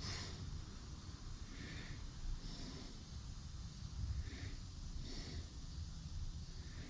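Soft breathing close to the microphone, a hissy puff every second or so, over a low steady hum.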